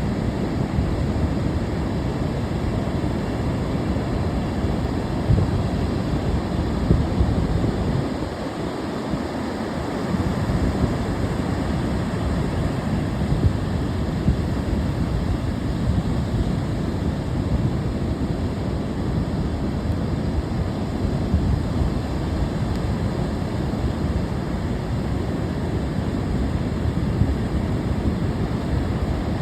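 Ocean surf washing in steadily, with wind buffeting the microphone as a low rumble that drops away briefly about eight seconds in.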